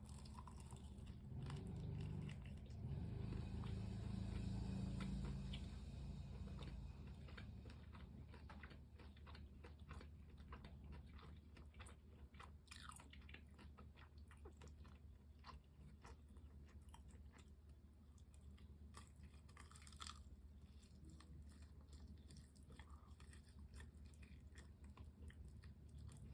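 Close-miked chewing of crispy fried chicken: crunchy bites and crackling chews, a little louder over the first several seconds.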